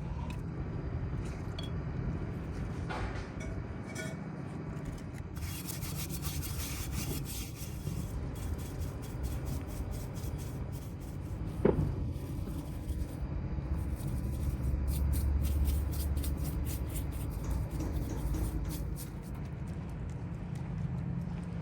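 Rubbing and scraping of hand work on a starter motor's parts, with one sharp click about halfway through.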